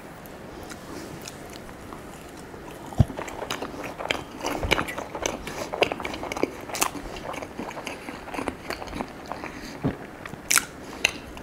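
Close-miked biting and chewing of a crepe: wet mouth clicks and soft crunches. They start about two seconds in and go on irregularly, with a single sharper knock about three seconds in.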